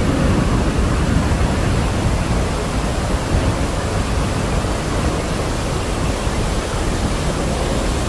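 Iguazu Falls: a huge mass of falling water making a loud, steady rush, deepest and heaviest in the low end.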